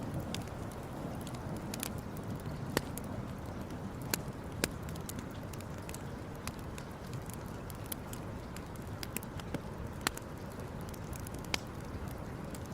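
Campfire burning with a steady low rush and scattered sharp crackles and pops, a few louder snaps standing out.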